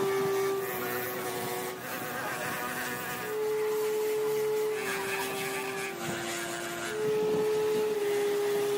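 Power grinder whining as it grinds the worn rubber off an old car tire. Its pitch steps up and down every second or so, over a rasping hiss.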